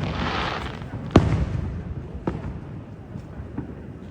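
Fireworks going off, with a loud bang about a second in followed by three fainter bangs.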